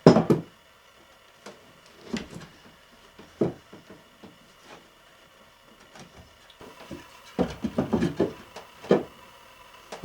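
Irregular wooden knocks and clunks of wood and hand tools being handled and set down, with a quick run of several knocks near the end.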